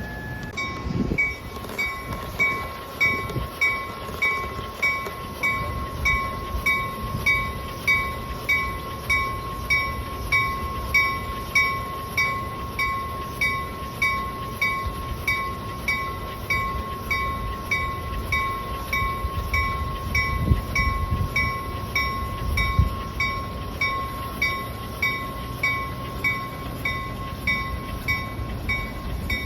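Railroad grade-crossing bell dinging steadily, about one and a half strikes a second, over the low rumble of a train.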